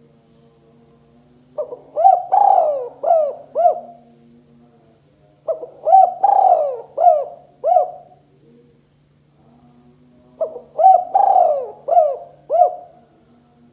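Spotted dove cooing: three phrases of about five short coos each, roughly four seconds apart, over a faint steady hum.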